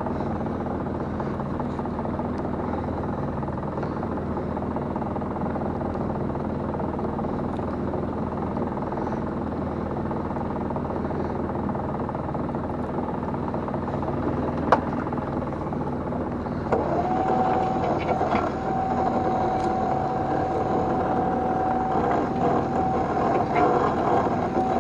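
Small fishing boat's engine running steadily during net hauling. A single sharp click comes a little past halfway, and a steady high whine joins about two-thirds of the way through.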